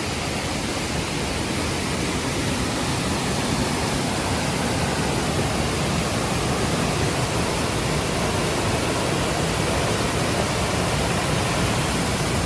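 River rushing: a steady, even roar of running water.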